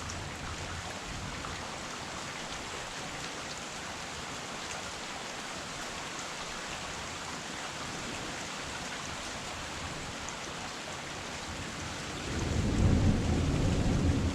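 Heavy rain falling steadily, an even hiss. About twelve seconds in, a low rumble of thunder starts and the sound grows louder.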